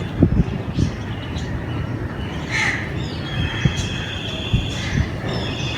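Crows cawing, with a short call about two and a half seconds in and thin, high bird chirps after it and again near the end, over repeated low thumps.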